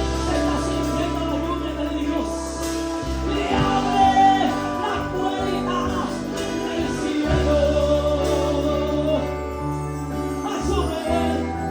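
Gospel worship chorus music: singing over sustained keyboard-like chords and a bass line that shifts every second or two.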